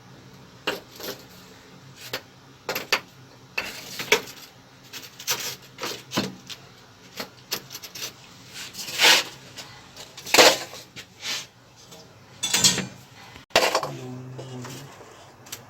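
Hand tools and metal fittings handled during plumbing work: a run of sharp clinks and knocks with a few longer scraping strokes, and a short low hum near the end.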